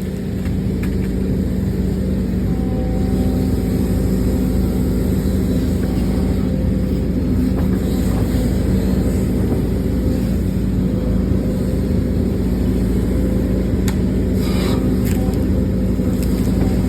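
Diesel engine of heavy earthmoving machinery, an excavator or dump truck, running steadily at constant revs as a loud, even drone. A few faint clicks come in about fourteen to fifteen seconds in.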